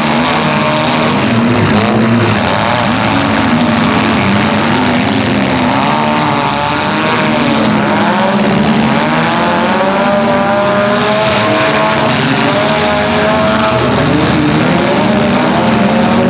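Several demolition-derby compact cars' engines revving hard at once, their pitches repeatedly rising and falling as the cars accelerate and back up.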